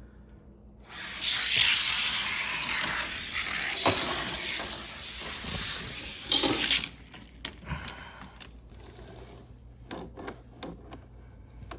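Plastic diecast car track rubbing and scraping for about six seconds, with two sharp clicks, then scattered small clicks and taps as the track is worked on.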